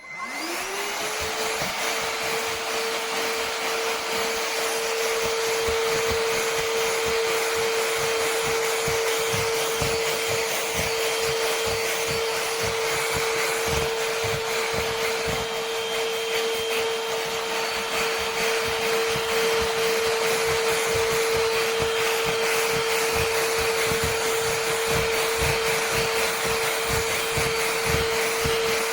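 Vexilar V9PRO cordless stick vacuum switched on, its motor spinning up in the first second to a steady high whine over a rush of air, then running steadily.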